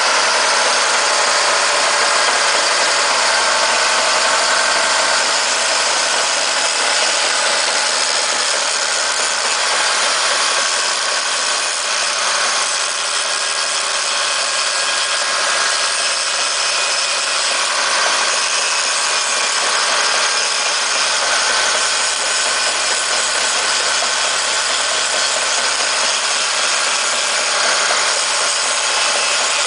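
Caterpillar D7H bulldozer's six-cylinder diesel engine running steadily at a constant speed.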